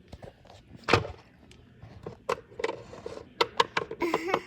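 Plastic toy figures and props knocked and clicked together as they are moved about by hand. The sounds are a run of sharp knocks, the loudest about a second in, then quicker clicks through the rest.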